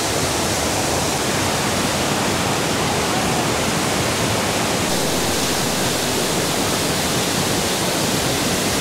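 A waterfall heard close up: water falling hard in a loud, steady rush.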